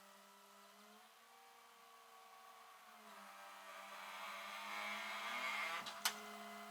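Faint mechanical whir and steady hum from the Ford F-250, swelling over a few seconds, then a sharp click about six seconds in.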